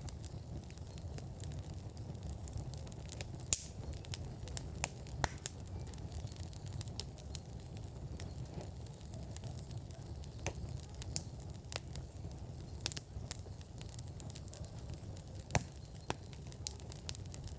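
Wood fire burning in an outdoor fire pit, crackling with irregular sharp pops and snaps, the loudest about three and a half seconds in and again near the end, over a steady low rumble.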